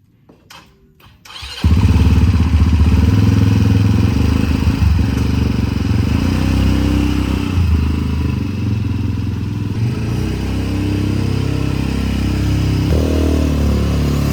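Motorcycle engine starts abruptly after a few soft clicks and runs steadily, with a short rise in revs near the end.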